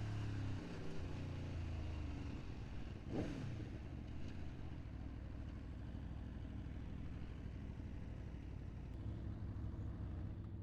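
Aprilia Tuono V4 motorcycle engine under way, its pitch easing down over the first two seconds as the bike slows, with a quick rise and fall in pitch about three seconds in, then running steadily at lower revs until the sound cuts off at the very end.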